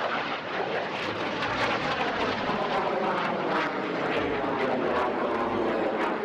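Canadair CT-114 Tutor jets of the Canadian Forces Snowbirds flying a display pass: a steady, loud rush of jet noise.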